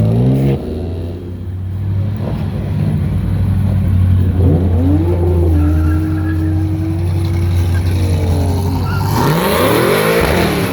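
Car engine revved hard several times: a sharp rise about four and a half seconds in, held at high revs for about three seconds, then falling, and another sharp rev near the end with a rush of noise, over the steady low hum of engines idling.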